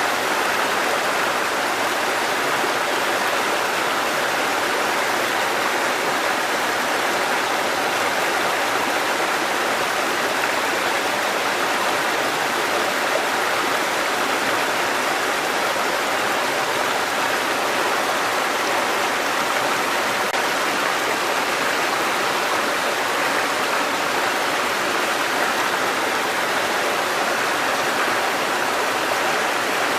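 Water cascading over rocks in a mountain stream, a steady rushing splash with no change.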